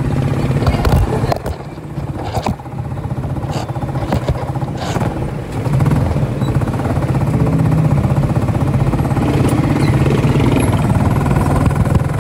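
Motorcycle engine of a tricycle running under way, heard from inside the covered passenger sidecar, with occasional knocks and rattles from the ride. The engine drops back briefly about a second and a half in and grows louder again around six seconds.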